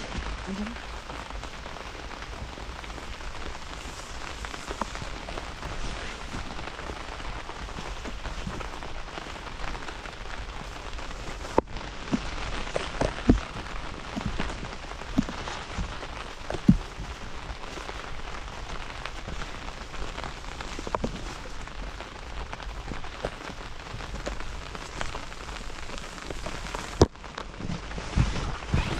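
Steady rain falling, with individual heavy drops tapping sharply on a surface now and then; the sound breaks off abruptly and resumes twice.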